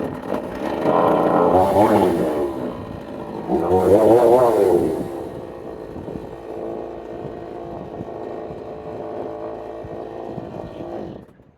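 Two-stroke chainsaw starting up abruptly, revved hard twice with a wavering pitch, then running steadily at lower speed before cutting off near the end.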